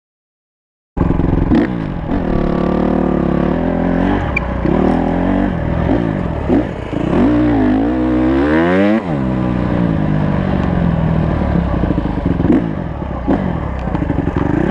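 Honda CRF150 four-stroke single-cylinder motocross engine revving up and down under riding, its pitch rising and falling with the throttle. It starts abruptly about a second in, and about nine seconds in climbs to a high rev that falls away sharply.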